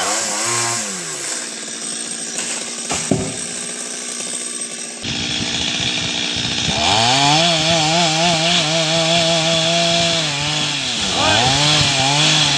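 Two-stroke chainsaw cutting a coconut palm: revved briefly, it drops back to a low idle for a few seconds, then is held at high revs for about four seconds before easing off and revving again near the end.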